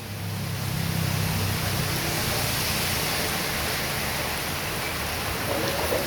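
Heavy rain falling in strong wind, a steady dense hiss. A low rumble fades out within the first couple of seconds.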